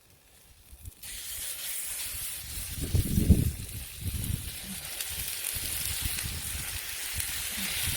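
Chicken breast sizzling on a grill over a campfire: a steady hiss that sets in about a second in. Low rumbling bumps come and go beneath it, loudest about three seconds in.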